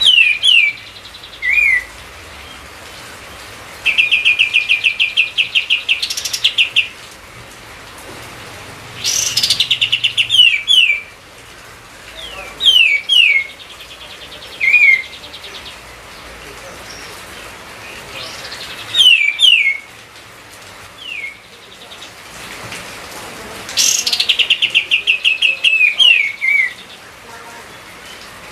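Kapas tembak songbird in full song, repeating a loud phrase every few seconds: a fast chattering trill followed by two or three quick falling whistled notes.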